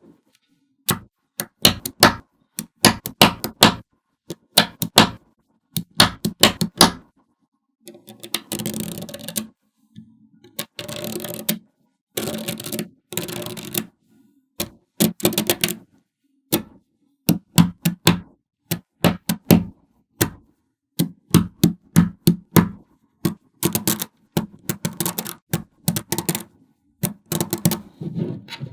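Small magnetic balls clicking and snapping together in quick bursts of clicks, with a few longer rattling stretches as strings of balls slide and roll against each other; complete silence between the bursts.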